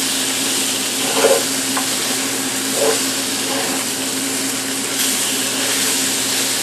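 Liver frying in butter in a pan, sizzling steadily, with a couple of short knocks of a utensil in the pan about one and three seconds in as the pieces are turned. A steady hum from a fan runs underneath.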